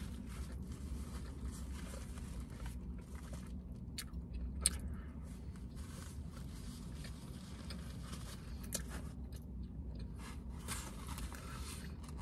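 Quiet eating sounds: chewing, with a paper wrapper rustling and crinkling as a pita is unwrapped, and scattered soft clicks and scrapes, one sharper click about five seconds in. A steady low hum runs underneath.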